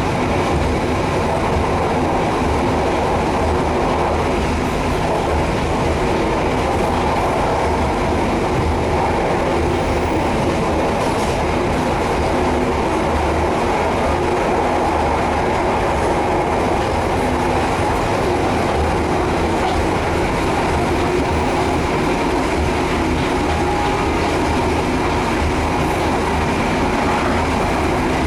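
Passenger train running at steady speed, heard from inside the coach: a continuous rumble of wheels on rails and carriage noise.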